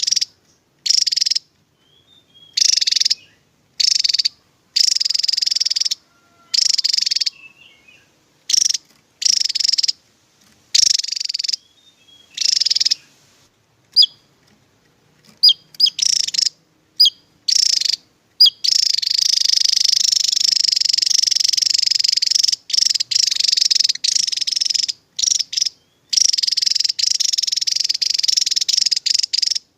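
Javan tesia singing in rapid, buzzy high-pitched bursts, each under a second long and separated by short pauses, with a few sharp thin chirps in between. Past the middle, the song runs almost unbroken for several seconds.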